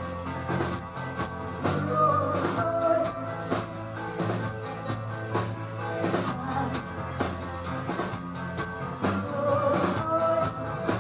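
Live pop-rock band music with a drum kit keeping a steady beat under sustained guitar and keyboard-like chords, in a passage without sung lyrics.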